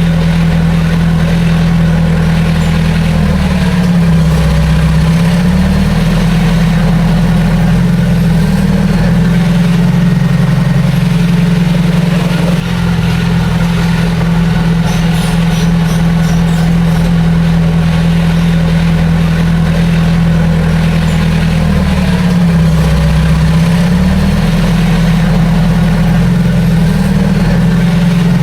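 Heavy diesel engine of earthmoving machinery running steadily and loud. Twice its pitch briefly sags and then comes back up.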